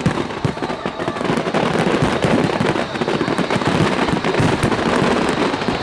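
Fireworks going off in a dense, continuous crackle of rapid bangs.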